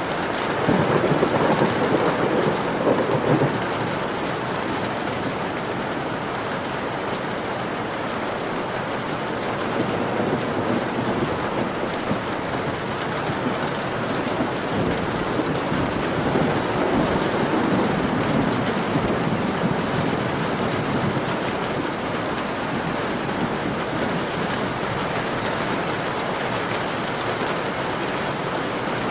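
Steady rain falling on a window, with thunder rumbling twice: a swell about a second in and a longer, softer one past the middle.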